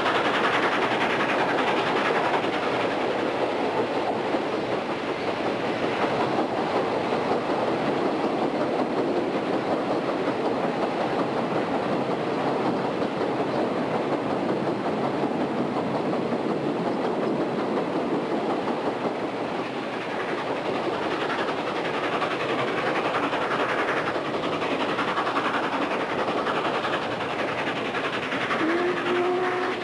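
A moving train: a steady rolling rumble and rattle of wheels on rail. A short rising tone comes in near the end.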